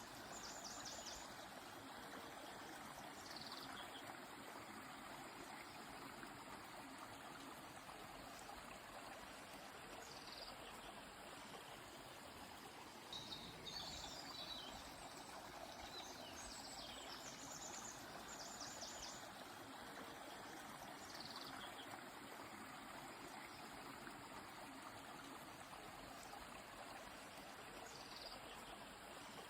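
Steady rush of a flowing river with birds singing over it: short downward-sliding calls every several seconds and a few brief rapid trills, with a burst of chatter about halfway through.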